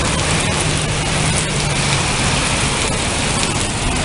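Heavy rain pouring down: a dense, steady hiss with a faint low hum underneath.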